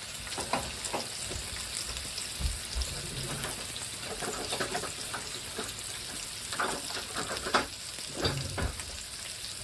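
Food cooking on a stovetop with a steady sizzling hiss, and utensils clinking and knocking against cookware several times.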